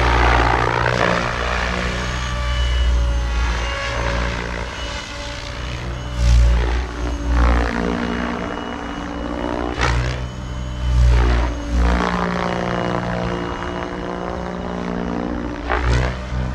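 Goosky RS7 electric radio-controlled helicopter in flight: the motor and rotor whine repeatedly swoops down and back up in pitch, several times, over a heavy low rotor rumble.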